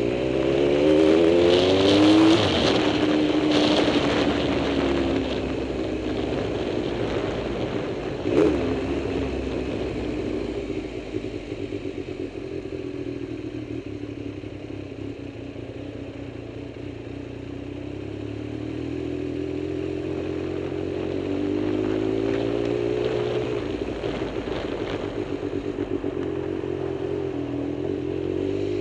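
Vehicle engine under way, its pitch climbing over the first two seconds, then dropping and holding steady, and climbing again over the last several seconds. A single sharp knock sounds about eight seconds in.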